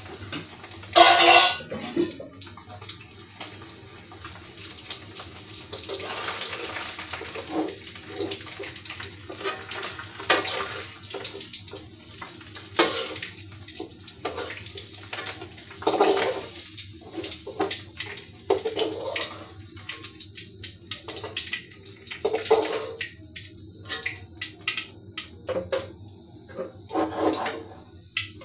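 Water splashing and sloshing in a container as baim fish are washed by hand, in irregular bursts with a loud splash about a second in.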